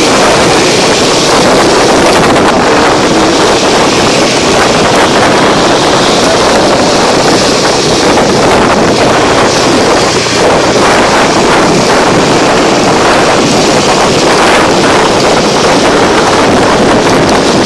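Wind rushing hard over the microphone of a motorcycle on the move, with the Bajaj Dominar 400's single-cylinder engine running steadily underneath.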